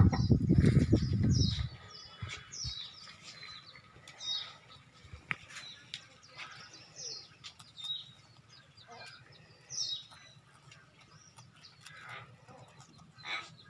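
A small bird chirping repeatedly, short high notes that drop in pitch, spaced irregularly. A loud low rushing noise fills about the first two seconds.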